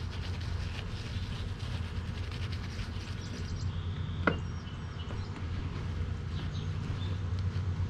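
A steady low mechanical hum, with faint high chirps over it and one sharp click about four seconds in.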